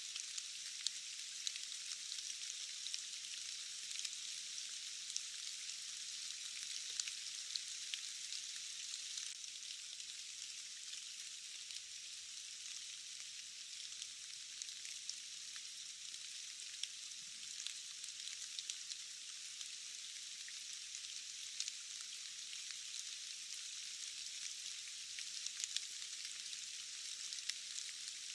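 Steady rain falling in a rainforest: an even hiss with many small drop ticks scattered through it, thin and without any low rumble.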